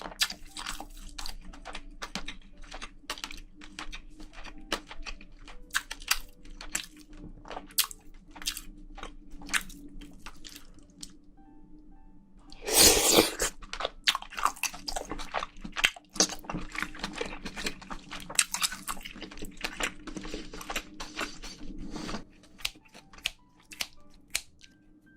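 Close-miked chewing and crunching of spicy braised seafood and bean sprouts: a dense run of short clicks and smacks, with a louder noisy rush about halfway through. Faint background music runs underneath.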